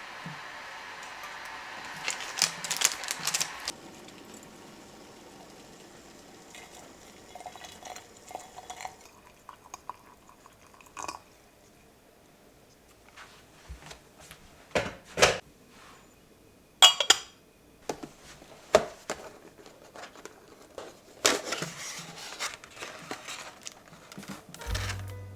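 Kitchen handling sounds: dishes and utensils clinking and knocking in scattered single strokes, after a few seconds of steady hissing noise at the start.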